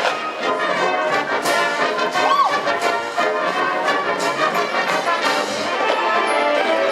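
High school marching band playing, its full brass section sounding a loud, sustained passage.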